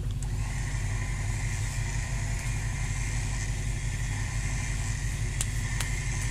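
SUV engine running at idle with a steady low rumble. A steady high whine comes in about half a second in and holds. Two sharp clicks sound near the end.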